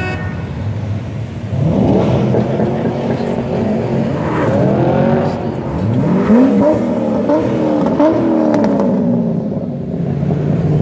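Muscle car engine revving up twice, its pitch sweeping up sharply then easing back down.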